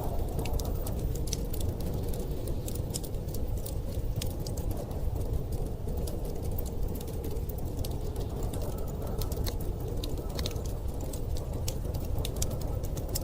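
Wood fire crackling in a fireplace, many small sharp pops and snaps, over a steady low rumble of blizzard wind.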